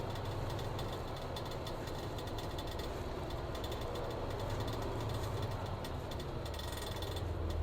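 Vehicle engine running with a steady low hum, heard from inside the cab.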